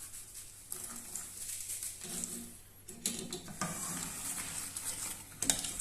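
Plain wholewheat biscuits being broken up by hand and dropped into a saucepan: dry crackling and crunching in two spells, with a sharper knock near the end.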